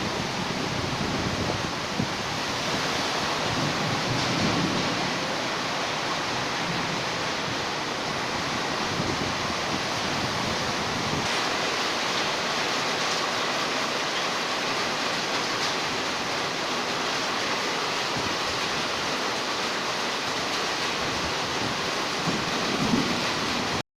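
Heavy storm rain pouring down in a steady, even hiss. It cuts off suddenly at the very end.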